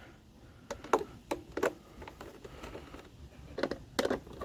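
A handful of short, sharp metallic clicks and taps at uneven intervals from a socket wrench working the screws of a lawn mower's engine cover.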